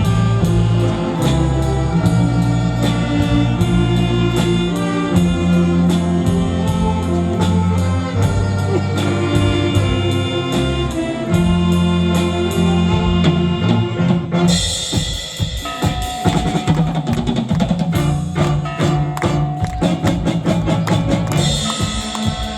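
Live saxophone big band playing a Korean pop and trot medley over a drum kit's steady beat. About two-thirds through, the bass thins and the drums and cymbals come to the front.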